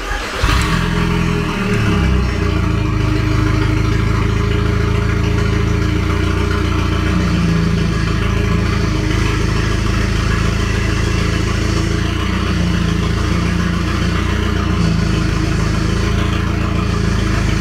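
Audi TT's 1.8T four-cylinder engine started with the key, catching almost at once and then idling steadily, with a constant whine over the idle. The power steering still sounds absolutely horrible after flushing out burnt, foamy fluid, and the owner wonders if the pump needs replacing.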